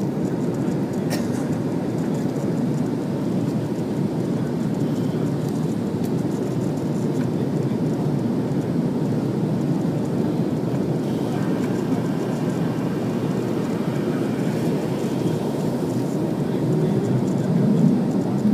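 Airliner cabin noise during takeoff: a steady rumble of jet engines and airflow heard from inside the cabin, swelling slightly near the end.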